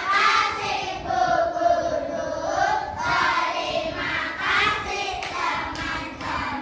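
A group of children singing together in unison, with held notes that glide in pitch.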